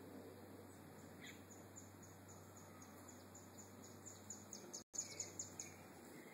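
Faint, high-pitched chirping of a small bird: a rapid series of short falling notes, about four a second, growing louder about four seconds in.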